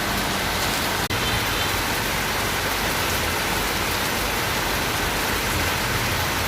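Heavy rain pouring down, a steady dense hiss, with a split-second gap about a second in.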